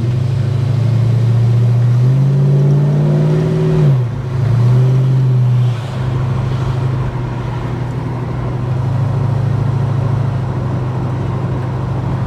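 Holden HK car engine under way, its note rising as it pulls about two seconds in, dropping sharply near four seconds, pulling again and dropping once more near six seconds, then running steadily at cruise.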